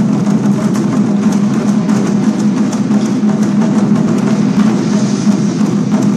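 Chinese war drums (zhangu) played by a drum ensemble, with fast, dense, continuous strokes.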